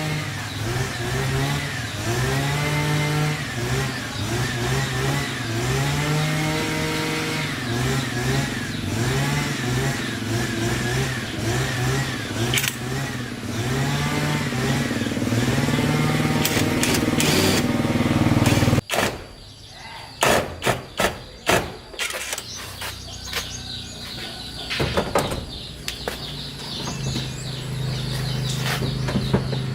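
A vehicle engine revved over and over, its pitch rising and falling about once a second. It cuts off suddenly about two-thirds of the way in, and a run of sharp knocks follows.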